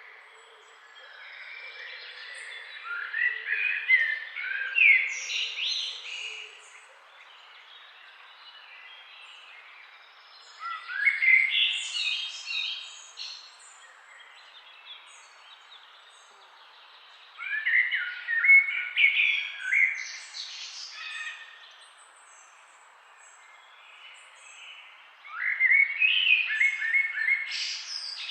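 A songbird singing four similar phrases of quick, upward-sweeping chirping notes, each phrase about three seconds long with pauses of several seconds between them. A faint steady background hiss fills the pauses.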